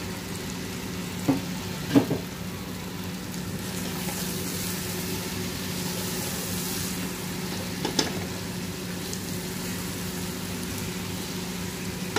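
Okra and meat curry sizzling in a pot as it is stirred with a slotted spoon, with a few knocks of the spoon against the pot about one and two seconds in and again near the eight-second mark. A steady low hum runs underneath.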